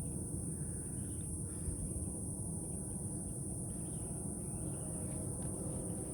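A steady, high-pitched chorus of insects droning without a break, over a continuous low rumble.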